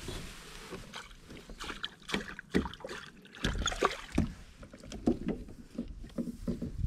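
Irregular knocks, taps and clunks of gear being handled aboard a kayak, with bouts of low rumble on the microphone.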